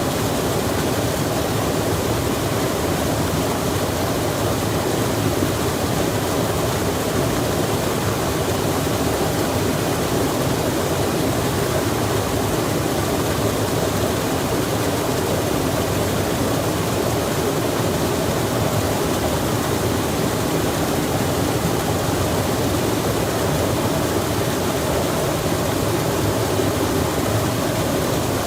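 A stream running with rain falling beside it: a steady, even rush of water with no breaks.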